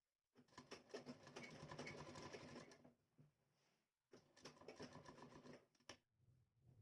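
Sewing machine running in two short bursts, a fast even clatter with a pause between, stitching lace onto a blouse neckline.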